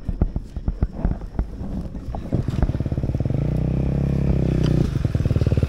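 A few knocks and clicks, then a dirt bike engine starts up about two seconds in, revs rising in pitch, dips briefly near the end and keeps running.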